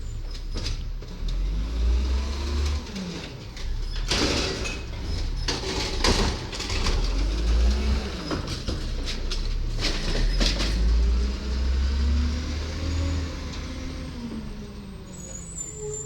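Garbage truck's diesel engine revving up and down several times while it works, with loud clattering bangs about four, six and ten seconds in.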